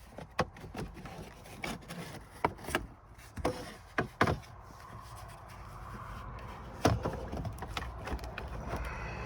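Plastic steering column trim being worked loose and handled, giving a string of irregular clicks, knocks and rubbing. The sharpest knock comes near the end.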